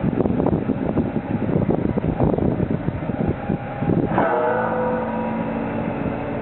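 Large fork truck's engine running with an uneven rumble while working a tire handler; about four seconds in it revs up quickly and holds a steady, higher pitch.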